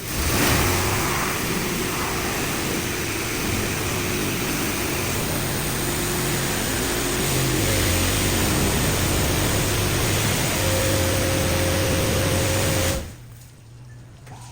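Touchless car wash machine spraying high-pressure water jets (90 to 120 bar) onto a car, a steady hiss with the high-pressure pump's hum underneath; it starts abruptly and cuts off suddenly about 13 seconds in.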